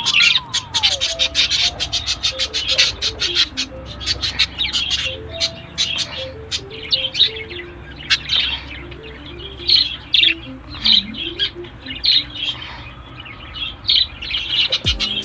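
A flock of small cage birds chirping, many quick calls overlapping without pause, over background music with a slow stepping melody.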